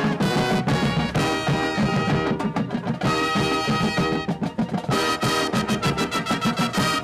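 High school marching band playing: held brass chords over marching percussion with regular drum strikes.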